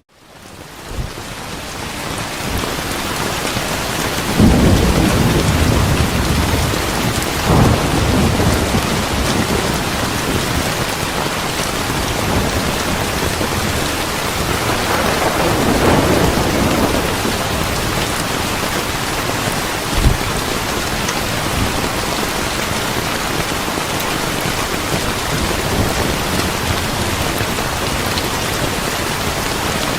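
Steady heavy rain falling, with thunder rumbling in low swells several times and one short low thump about two-thirds of the way in. The rain cuts out for an instant at the very start and swells back in over a couple of seconds.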